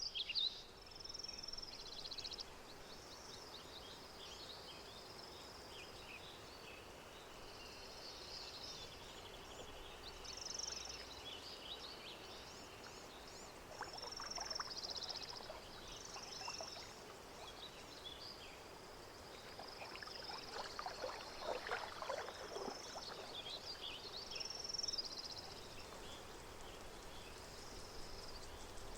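Lakeside nature ambience: small birds chirping and trilling throughout, with soft patches of water lapping and splashing about halfway through and again later.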